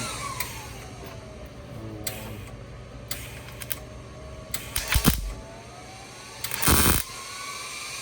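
Short MIG welding tacks on thin car body sheet metal: scattered clicks, then a cluster of crackles about five seconds in and a louder half-second burst near the end.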